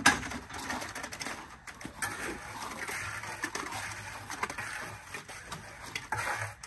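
Wet concrete being tipped and worked into stair formwork: a sharp knock at the start, then steady scraping and shuffling.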